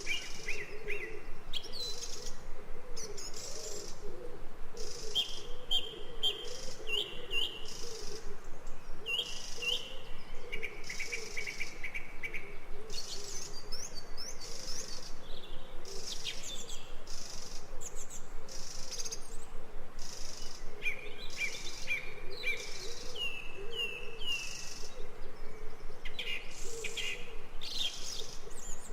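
Jungle ambience: several birds calling in short chirps repeated in quick runs of two or three, with patches of higher, hissing calls. A low wavering chorus goes on underneath throughout.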